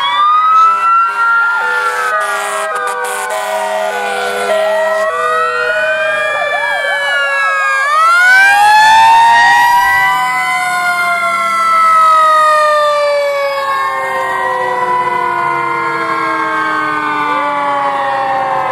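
Fire engine siren wailing, several siren tones overlapping as they rise and fall in pitch, with a short run of stepped electronic tones in the first few seconds.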